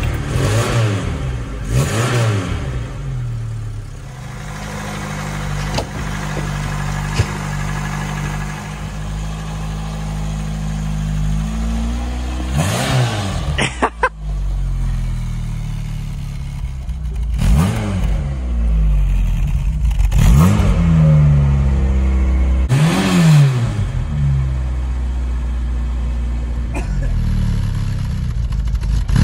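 Carburetted 1.3 four-cylinder petrol engine of a 1991 Vauxhall Astra Mk2 running just after a cold start on its automatic choke, idling steadily between about six short throttle blips that rise and fall quickly. A sharp click about halfway through.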